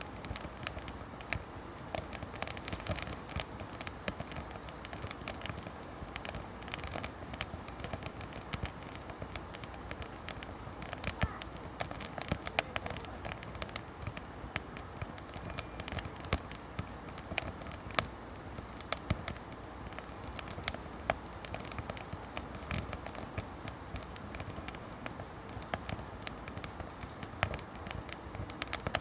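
Firewood burning in a campfire, crackling with many sharp, irregular snaps and pops.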